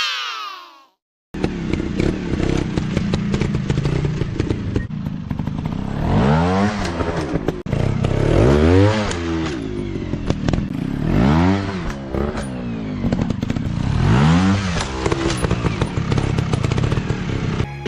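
Off-road dirt bike engines running with a rattling clatter and revving up and back down four times. There is a short drop-out about a second in.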